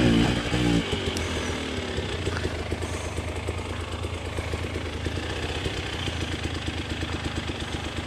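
Enduro dirt bike engine running steadily, with even, rapid firing pulses and no revving.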